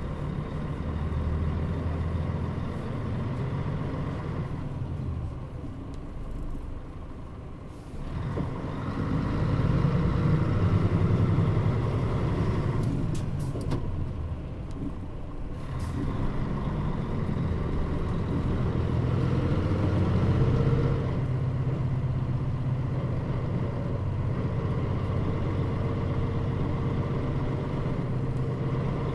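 Mitsubishi Fuso KL-MP35JM bus heard from inside while driving, its engine running steadily. It eases off and quietens about five seconds in, then pulls harder and louder from about eight seconds on, with a few sharp clicks in the middle.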